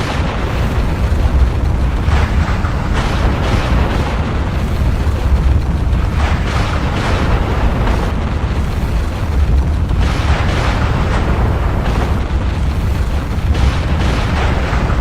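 Volcanic eruption: a continuous deep rumble with repeated noisy blasts swelling up every second or two.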